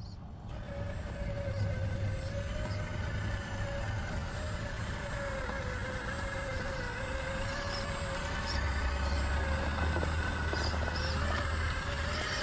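Electric drive motor and gearbox of a radio-controlled crawler truck whining steadily while it drives, the pitch wavering slightly with the throttle, with a thin high whine above it. A low rumble grows stronger about two-thirds of the way in.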